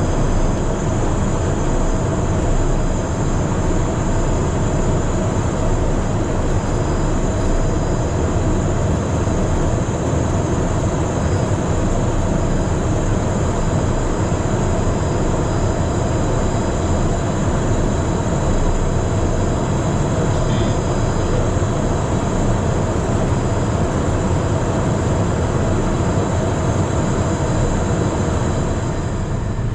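Steady cockpit noise of a Cessna Citation Mustang light jet: the rumble and hiss of its twin Pratt & Whitney PW615F turbofans, with a steady high whine above.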